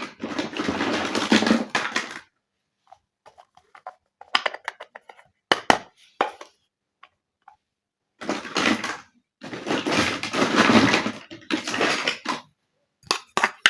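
Small plastic toy kitchen pieces and their packaging being handled. There are two long stretches of rustling and rattling, with scattered light clicks and taps between them.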